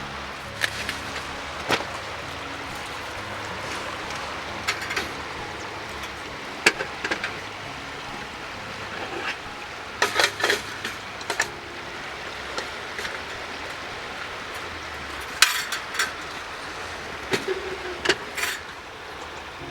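Scattered clinks, taps and short bursts of knocking from cookware and utensils being handled, over a steady hiss.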